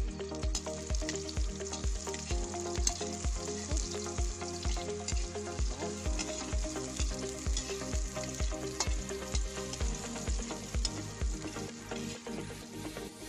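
Food sizzling in a hot kawali (wok) as a metal spatula stirs it, with scattered clicks of the spatula against the pan. Background music with a steady beat, about two thumps a second, plays along.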